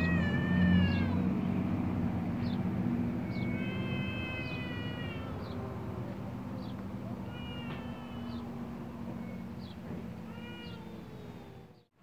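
Birds calling: drawn-out squeaky notes with several pitches at once, repeated every few seconds, and short sharp high chips about once a second, over a low steady hum.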